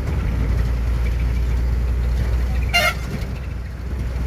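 18-wheel truck's engine running with a steady low drone, and a short horn toot about three seconds in.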